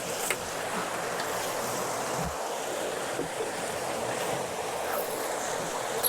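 Steady rush of water and wind as a J/105 sailboat sails fast through waves.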